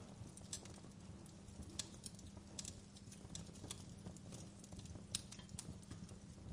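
Wood fire crackling: irregular sharp pops and snaps over a low steady rumble of flames.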